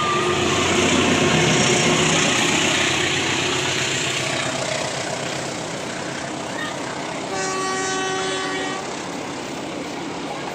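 Train passing with loud, even running noise over the first few seconds. A little past the middle, a locomotive horn sounds once, a steady blast of about a second and a half.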